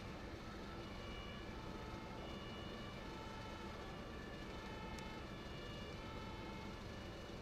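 German two-tone emergency-vehicle siren (Martinshorn) alternating between a low and a high note about once a second, faint against a steady low rumble of traffic. A single short click sounds about five seconds in.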